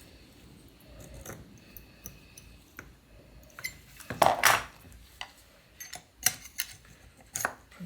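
Small steel parts clicking and clinking as a tiny leaf spring is worked into a Land Rover Series gearbox synchro hub, with a louder half-second scrape about four seconds in.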